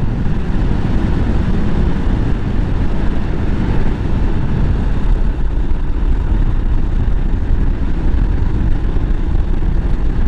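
Motorcycle engine running at steady road speed, mixed with wind rushing over the rider's microphone.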